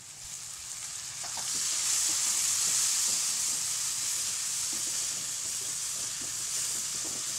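Onions, green chillies and fresh tomato pieces sizzling in hot oil in a dark non-stick kadai while a wooden spatula stirs them. The hissing grows louder about two seconds in as the wet tomato hits the oil, then holds steady, with faint scrapes of the spatula.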